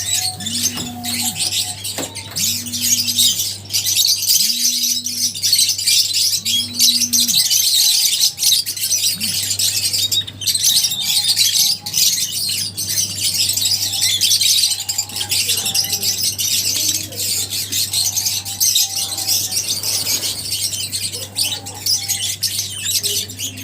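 A flock of lovebirds chirping together in a dense, high-pitched chatter. In the first seven seconds a low, flat tone repeats five times about every second and a half, over a steady low hum.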